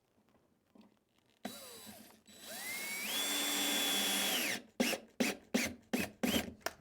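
Power drill driving a screw into wood: the motor spins up with a rising whine, runs steadily for about two seconds, then stops, followed by about seven short trigger blips to seat the screw.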